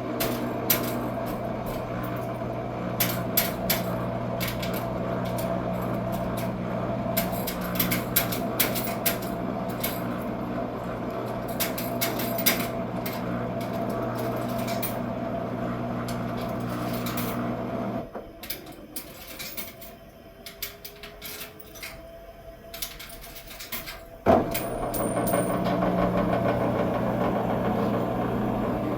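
Washing machine running mid-cycle, a steady motor hum with frequent light clicks and rattles. About two-thirds of the way through the motor stops for several seconds, then starts again with a sharp click.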